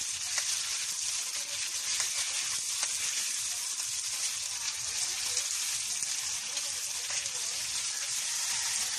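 Shrimp and onions sizzling in hot oil in a pan, stirred with a utensil; a steady high hiss with scattered faint clicks.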